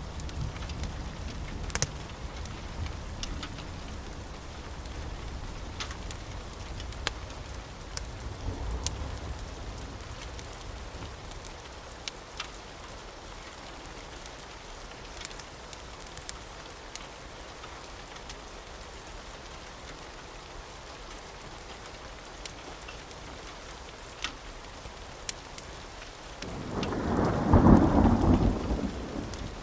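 Steady rain with scattered sharp crackles, under a low rolling thunder rumble that dies away over the first dozen seconds. A loud thunderclap breaks out about three seconds before the end.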